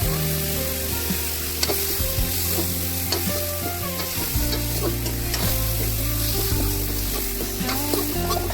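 Chicken curry frying and sizzling in a pan as it is stirred, a utensil clicking and scraping against the pan many times.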